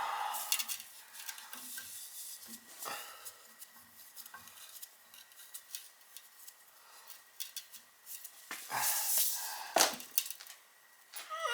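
Metal tools clinking and knocking against the boiler piping as a wrench is worked onto the expansion tank fitting. There are scattered sharp knocks, a louder scraping stretch about nine seconds in, and a short squeak near the end.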